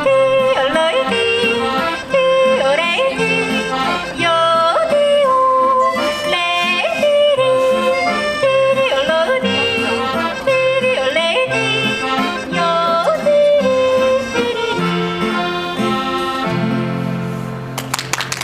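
Female yodel duet singing over accordion accompaniment, the voices flipping quickly between low and high notes in yodel leaps. About fifteen seconds in the yodeling stops and the accordion plays on alone.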